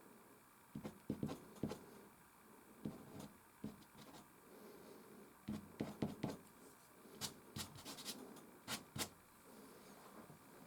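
Soft pastel stick scratching across canvas in short, irregular strokes, with a few sharper clicks later on.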